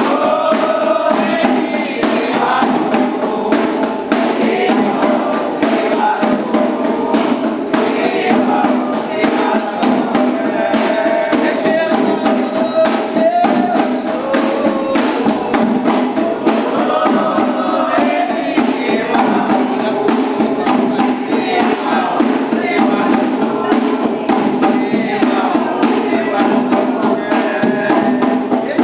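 Candomblé sacred music: a group of voices singing a chant over steady, fast percussion with a struck metal bell.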